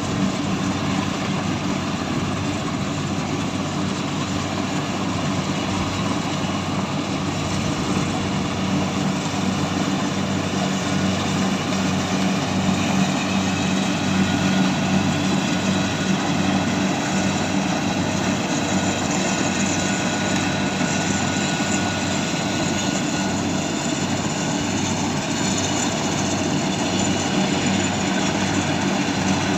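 Engine of a heavy farm harvesting machine running steadily under work, a continuous low drone.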